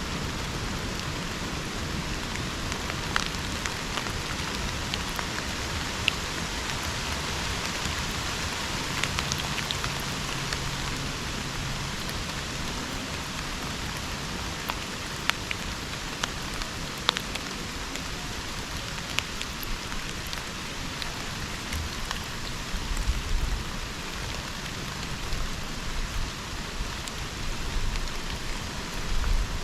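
Steady rain falling in a subtropical rainforest, with scattered sharper drops ticking out above the even hiss. Some low rumbling comes and goes in the last few seconds.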